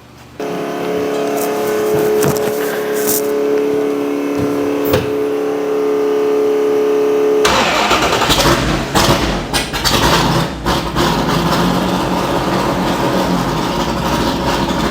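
Superformance GT40 Mark II's 427 Roush V8 running: a steady idle, turning abruptly louder and rougher about halfway through. The engine has a misfire from a faulty spark plug wire arcing to the fuel rail.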